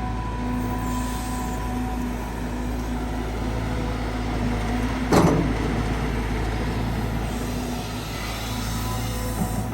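Caterpillar 320GX excavator's four-cylinder C4.4 diesel running steadily under digging load, with the hydraulic pump's whine rising and fading as the boom and bucket move. A single loud knock comes about five seconds in.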